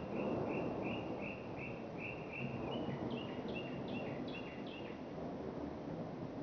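A songbird singing: a run of short, even whistled notes about three a second, then a few quicker notes that slur downward, over a steady low background rumble.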